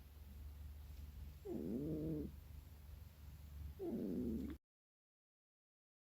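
Sleeping cat giving two short, low, wavering vocal sounds about two seconds apart, of the kind the owner takes for dreaming. A steady low hum runs underneath, and the sound cuts out abruptly to dead silence well before the end.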